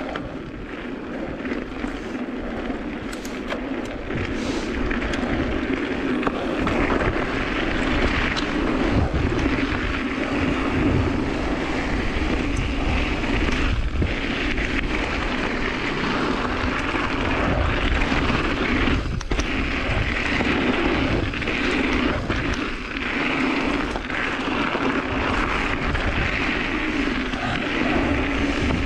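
A steady engine drone with a fluctuating low rumble underneath, of the kind a propeller aircraft makes.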